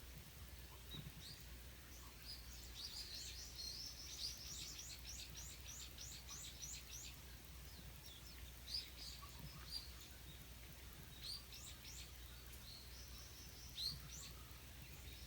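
Small birds chirping faintly. A few seconds in, one gives a quick run of repeated high notes, each sliding downward, about three a second, followed by scattered single chirps. A low steady hum sits underneath.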